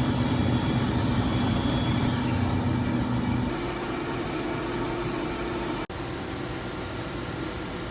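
Machine running with a steady hum. The pitch steps up and the level drops slightly about three and a half seconds in. The sound breaks off for an instant near six seconds, then a steady hum carries on.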